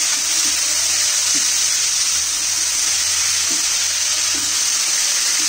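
Diced chicken, onion and capsicum frying in oil in a kadai: a steady sizzle, with a few light scrapes of a spoon stirring it.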